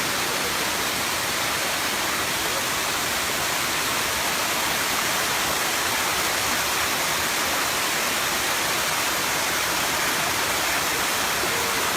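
The seventh tier of Erawan Waterfall pouring steadily, an even rush of falling water.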